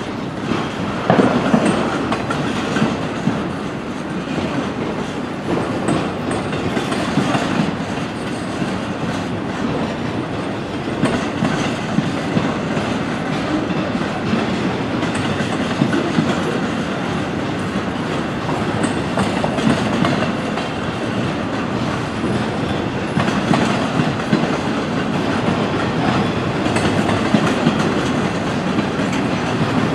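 Freight train cars rolling past, wheels clicking over the rails with repeated sharp knocks.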